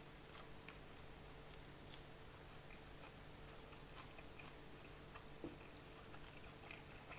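Near silence: faint chewing and small scattered clicks of someone eating a fish wrap, over a low steady hum.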